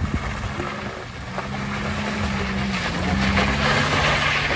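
Datsun GO+ engine pulling hard up a steep dirt climb, a steady hum that dips briefly about three seconds in. Tyres grind on the loose gravel, growing louder near the end as the car comes close.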